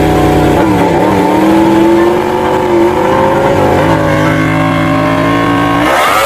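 Racing engine revving, its pitch rising and falling several times between steadier stretches.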